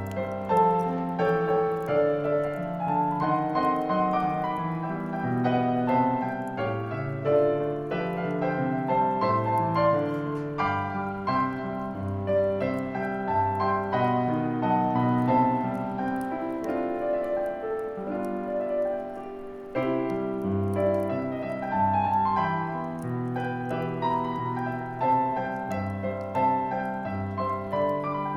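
Solo piano playing a calm Christmas song arrangement, with a brief break between phrases about twenty seconds in.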